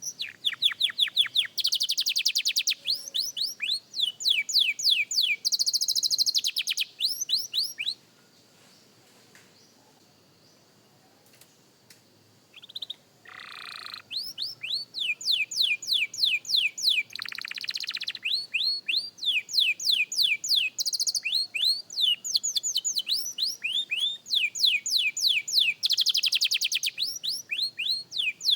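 Young canary singing: rapid runs of repeated downward-sweeping whistled notes, phrase after phrase, breaking off for about four seconds near the middle before starting again.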